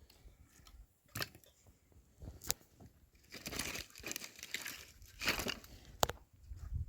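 Crinkling, rustling handling noise, like something being crumpled or torn, broken by a few sharp clicks or knocks.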